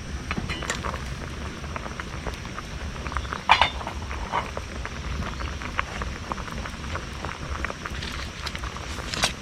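Wood campfire crackling, with irregular pops and one louder pop about three and a half seconds in, over a steady low hum.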